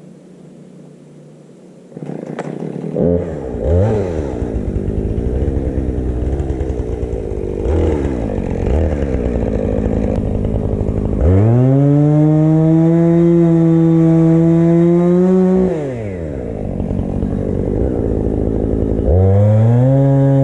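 Two-stroke chainsaw starting after a low steady hum, idling with a few quick blips of the throttle, then held at full throttle for about five seconds. It drops back to idle and is opened up to full throttle again near the end.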